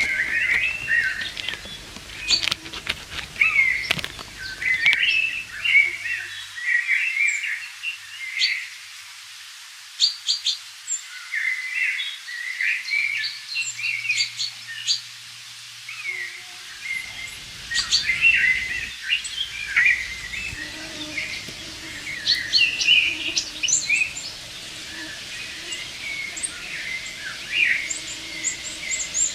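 Several songbirds singing and calling, with many short chirps and trills overlapping throughout. A few sharp clicks sound about two to four seconds in.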